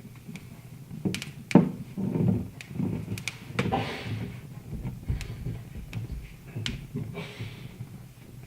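Wood fire crackling in a fireplace: irregular sharp pops and snaps over a low rumble, the loudest pop about a second and a half in.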